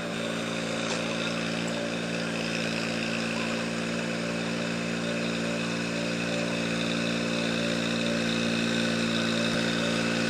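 Swaraj 735 FE tractor's diesel engine running steadily, growing slightly louder near the end.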